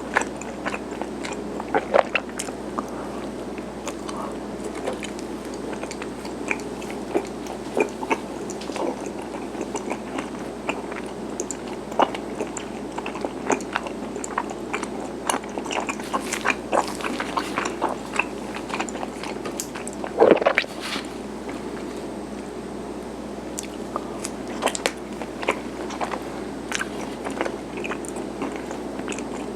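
Close-up mouth sounds of biting and chewing garae-tteok, chewy Korean cylinder rice cake: scattered short, soft clicks over a steady low background noise, with a louder bite about twenty seconds in.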